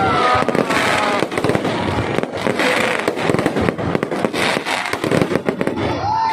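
Fireworks display going off: a dense, rapid run of sharp bangs and pops with no letup.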